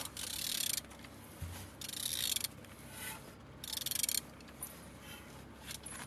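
A Renault K4M 1.6-litre 16-valve four-cylinder engine being turned over by hand: three strokes, each about half a second to a second of fast mechanical clicking and whirring from the turning engine and the tool on it.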